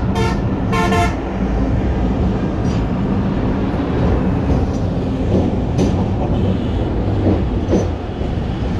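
Passenger train running with a steady loud rumble and hum. Its horn gives two short toots in the first second.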